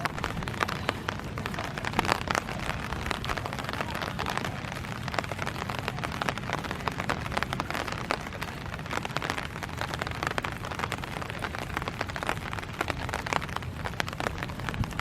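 Heavy monsoon rain falling steadily, with many sharp drop hits close by.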